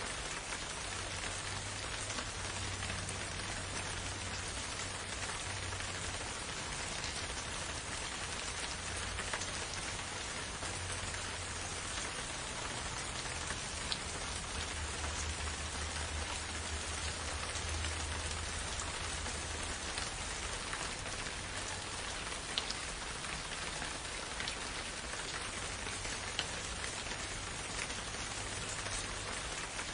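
Steady rain falling, an even hiss of many drops, with a few single louder drop taps now and then.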